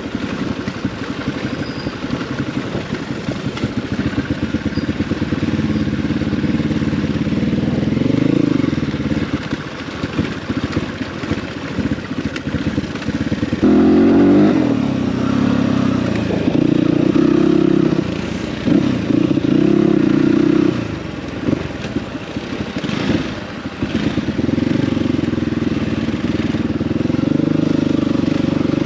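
Dirt bike engine running under way, its pitch rising and falling repeatedly as the throttle is opened and eased off.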